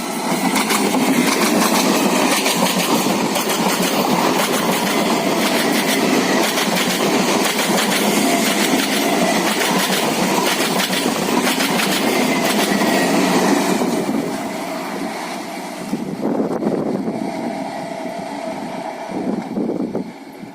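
Suburban local passenger train passing close by, its wheels clattering over the rail joints. The sound is loud for about the first fourteen seconds, then drops off as the train moves away.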